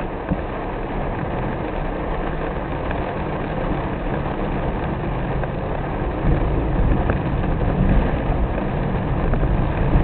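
Car driving in rain: a steady low rumble of engine and tyres on wet road, with rain hitting the car and a few faint drop ticks. The low rumble grows louder about six seconds in.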